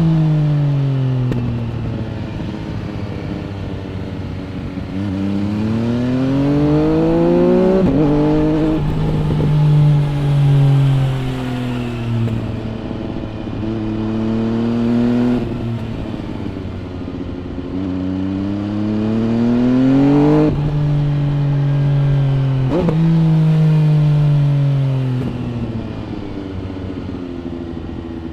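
MV Agusta Brutale 800 RR's three-cylinder engine through an MV Agusta Corse trio exhaust, heard onboard, pulling hard through the gears. Its pitch climbs steadily, then drops sharply at three quick upshifts, and falls away in between as the rider rolls off the throttle.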